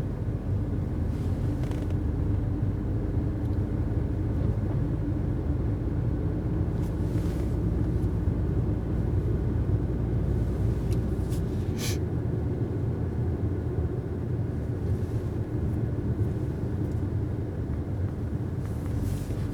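Cabin noise of a 2019 Mercedes A-Class driving on snow: a steady low rumble of engine and tyres, with one short sharp click about twelve seconds in.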